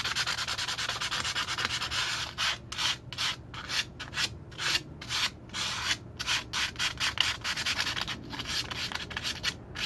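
Sandpaper being rubbed by hand over a rusty truck wheel to take off the rust before painting: a continuous scratching at first, then separate back-and-forth strokes about three a second.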